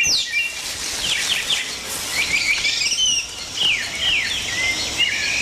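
Birds chirping in rainforest ambience: a busy run of short, high chirps, many of them quick downward sweeps, over a steady background hiss.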